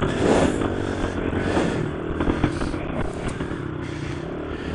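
Dirt bike engine running at a steady, low speed, with a few light knocks and rattles over rough ground.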